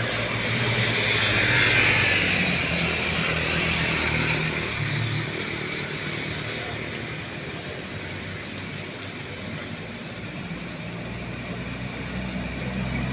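Road traffic: motor vehicle engines and tyre noise. It is loudest in the first few seconds, as a vehicle passes close, then eases to a steadier engine hum, with a slight rise near the end.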